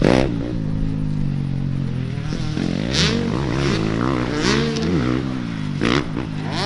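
Dirt bike engines on a motocross track revving up and down repeatedly as the bikes ride through the course, with a few brief sharp noises at the start, about three seconds in and near the end.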